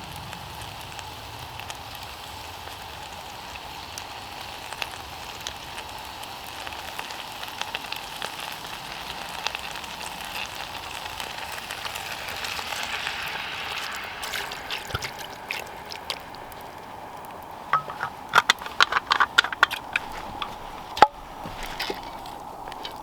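Quail stew sizzling in a pot over the campfire, a steady hiss. Near the end comes a quick run of sharp clicks and knocks.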